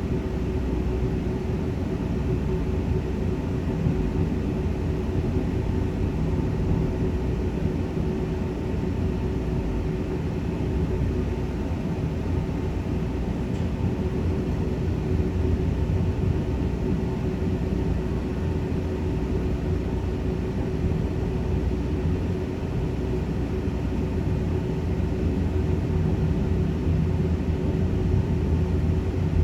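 Zipangu Hiraizumi train running at speed, around 110 km/h: a steady, even rumble of wheels on rail with a constant hum held under it and no changes.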